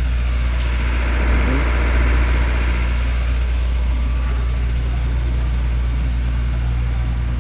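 A motor vehicle engine running with a steady low rumble, under street noise that swells between about one and three seconds in.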